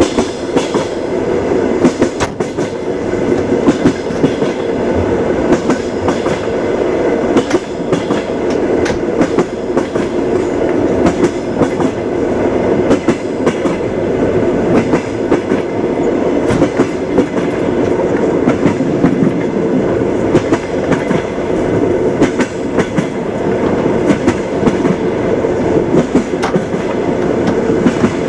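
Train wheels clicking over rail joints as a train runs along at steady speed, over a continuous rumble of the moving carriage.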